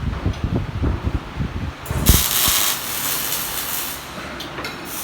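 Arc welding: irregular low knocks, then a steady hiss that starts suddenly about two seconds in, drops out briefly near the end and starts again.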